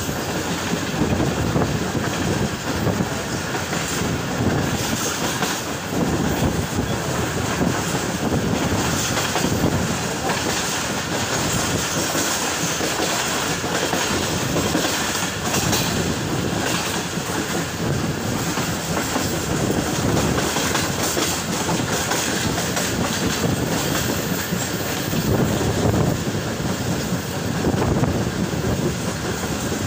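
Passenger train running along the track, its wheels clattering over the rail joints above a steady rumble that swells now and then.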